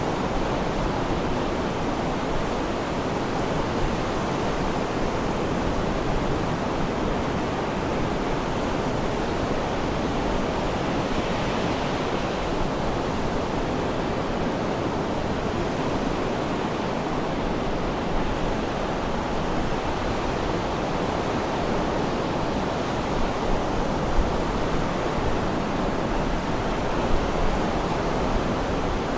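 Sea surf washing steadily, a continuous rush of waves with a couple of brief louder splashes near the end.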